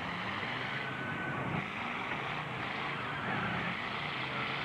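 Several truck engines running and revving together in a steady, continuous din.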